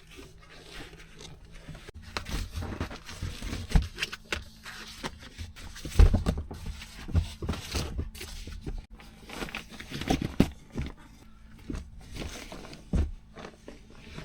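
Irregular knocks, taps and rustles of things being handled in a small enclosed space, with the loudest thump about six seconds in, over a faint steady low hum.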